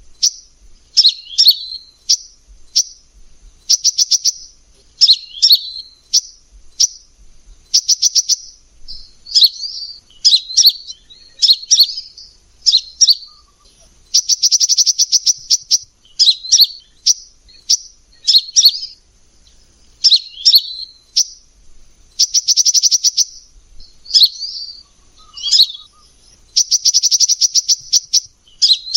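Kolibri ninja sunbird singing: short, high, sharp chirping phrases about once a second, broken every several seconds by a longer, fast rattling trill.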